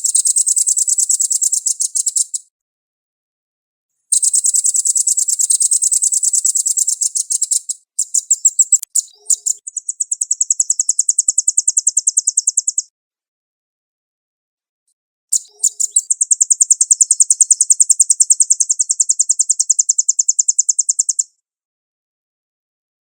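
Velvet-fronted nuthatch singing its fast, high-pitched trilling song in four bursts of a few seconds each, separated by short pauses, with a few spaced single notes before the third burst.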